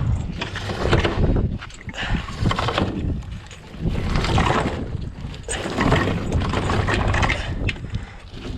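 Heavy, muddy mooring chain being hauled up by hand out of the water, coming in repeated surges of noise about every one to two seconds, with wind buffeting the microphone.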